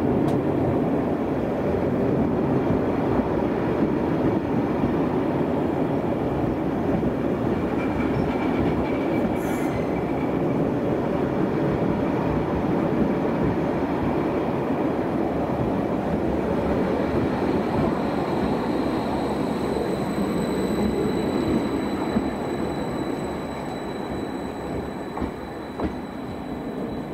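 Electric multiple-unit passenger train running along the platform, a steady heavy rumble of wheels on rail. A thin high whine comes in about two-thirds of the way through, and the noise eases off over the last few seconds as the train moves away.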